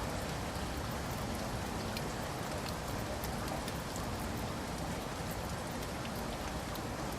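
Steady rain falling on a roof, a constant hiss with scattered individual drops ticking throughout.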